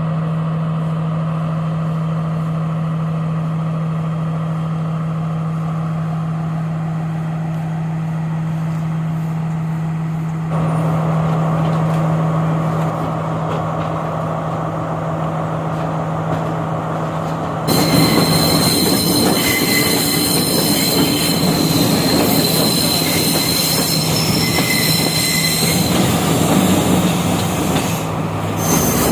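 Class S14A diesel train running on the rails. For the first half a steady low engine hum dominates. About two-thirds of the way in the sound changes abruptly to louder running noise with high-pitched wheel squeal.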